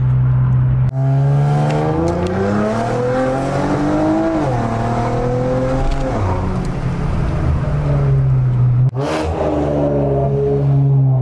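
Infiniti Q50 with catless downpipes and a custom exhaust accelerating hard, heard from inside the cabin. The engine's pitch climbs, drops at an upshift about four and a half seconds in, then climbs again. The sound breaks off abruptly about a second in and again near nine seconds.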